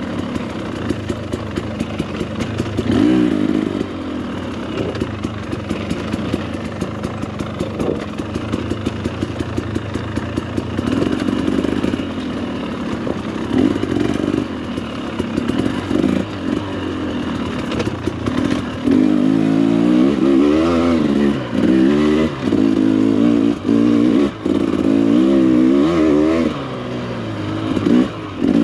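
Husqvarna two-stroke dirt bike engine under the rider, revving up and down on the throttle, with steady rattling clatter from the bike. From about two-thirds of the way in the revs rise and fall in quick repeated bursts, with a couple of brief cut-offs.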